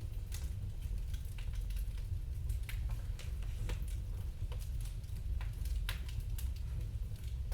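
Wood fire in a fireplace crackling, with irregular sharp pops and snaps, several a second, over a low steady rumble.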